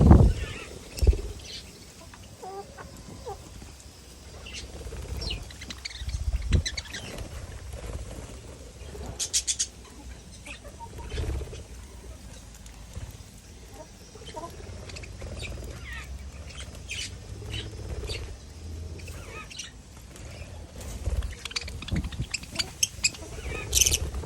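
Pineapple conure, a green-cheeked conure colour mutation, making scattered short chirps and squeaks. A few low thumps come through, the loudest near the start.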